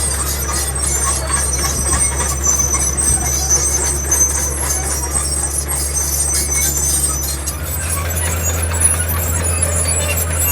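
Heavy diesel earthmoving machine running steadily under load, with high metallic squealing over the engine. The engine note steps up slightly about seven and a half seconds in.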